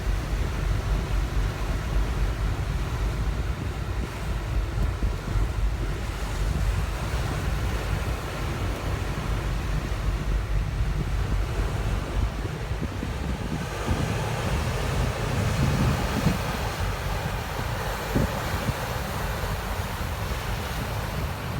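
Wind buffeting the microphone on the deck of a passenger ship at sea, over a steady rush of sea and ship noise. About two-thirds of the way in, a brighter rushing noise joins.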